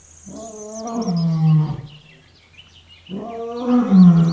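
Lioness calling: two long, low roaring calls a little over a second apart, each sliding down to a held lower tone at its end.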